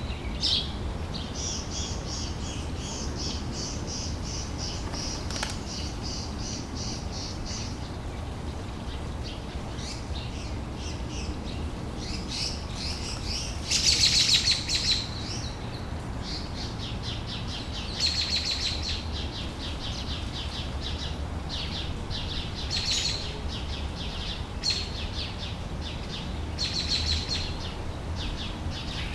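Songbirds singing: repeated high chirps and trills, with a long rapid trill in the first several seconds and the loudest burst of song about halfway through, over a steady low background.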